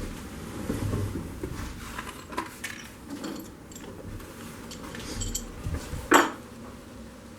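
Metal tools and engine parts being handled, with scattered clinks and knocks and one loud sharp knock about six seconds in.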